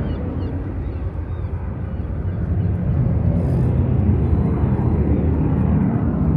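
Steady low rumble of an aircraft flying out of sight in cloud, with no clear engine tone.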